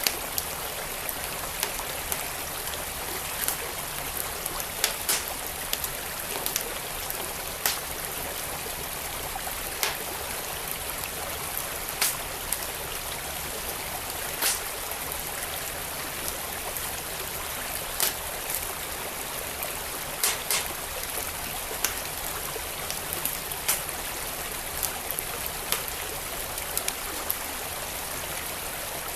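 Wood fire in a fireplace crackling, with sharp irregular pops over the steady rush of a flowing stream.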